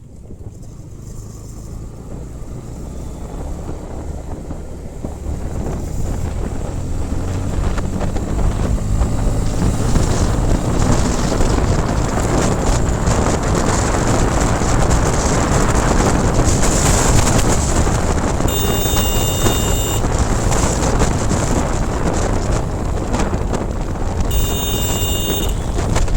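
Motorcycle riding, its engine and the wind rushing over the microphone growing louder over the first ten seconds and then staying steady. Two held high tones, each about a second and a half, sound in the second half.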